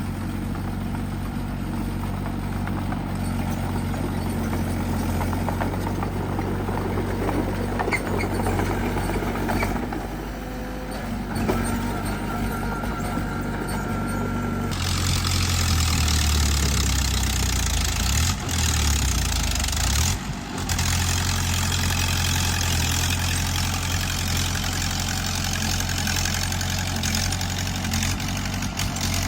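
Diesel engine of a bulldozer running steadily under work. About halfway through, the sound changes suddenly and a hiss joins the engine.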